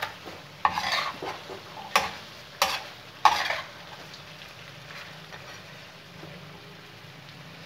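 Spatula stirring and scraping mutton chops on a hot tawa, with four sharp clanks in the first three and a half seconds, then steady sizzling of the meat frying in oil.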